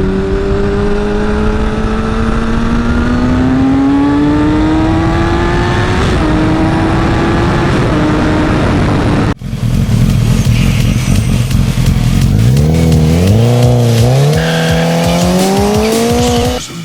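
A vehicle engine revving hard and accelerating through the gears, its pitch climbing and then stepping down at each shift. About nine seconds in, it cuts abruptly to another stretch of the engine pulling up through the gears.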